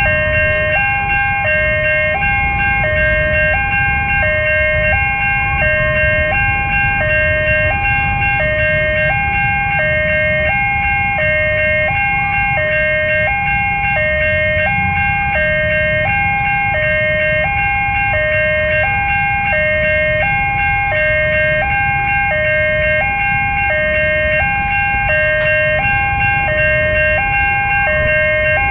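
Railway level-crossing alarm sounding: a loud two-tone electronic alarm switching evenly between a higher and a lower pitch, with steady ringing tones above it and a low rumble beneath.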